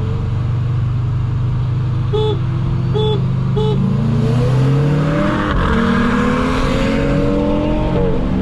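Inside the cabin of a stage-one-tuned 2020 Subaru WRX STI with a Cobb intake: the turbocharged flat-four runs steadily at first, with three short beeps about two to four seconds in. Then the engine revs up hard in a rolling pull, with a rushing sound under the rising note, drops briefly at a gear change near the end and climbs again.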